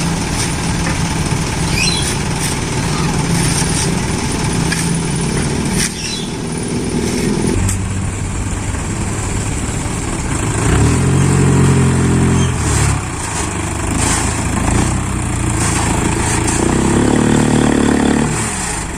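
Isuzu Elf dump truck's diesel engine running while the truck tips its load of sand, revving up for a couple of seconds about eleven seconds in and again near the end.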